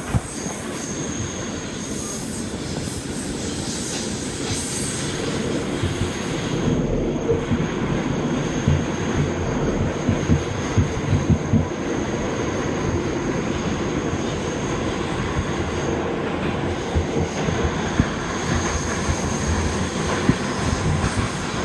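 New York subway train running at speed through a tunnel between stations, heard from inside the car: a continuous rumble and rattle with irregular sharp clicks from the rails and a faint high whine that comes and goes.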